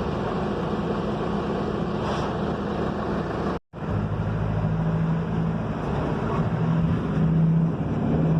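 Mercedes-Benz OF-1721 bus running on the road, heard from inside the cabin: a steady engine hum over road noise. The sound cuts out for a split second about three and a half seconds in, then the engine hum carries on.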